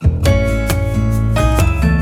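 Background music led by strummed acoustic guitar, with steady strokes about every half second.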